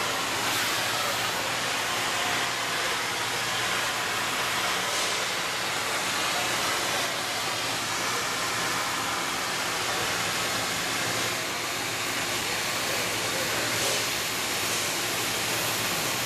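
Cutting torch of a CNC beam-coping machine hissing steadily as it cuts through a steel beam, with a faint steady machine hum underneath.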